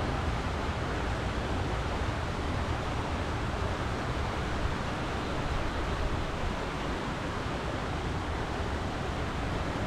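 Steady rushing of water, an even noise with no breaks, from the water flowing at a coastal fish farm.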